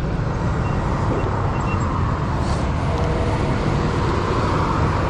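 Steady road traffic noise: vehicles running and passing, with a continuous low rumble.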